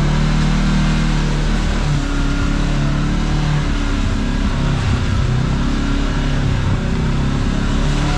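Kawasaki KRX side-by-side's engine running steadily under way on a trail, its pitch rising and falling a little in the middle, with steady road and drivetrain noise.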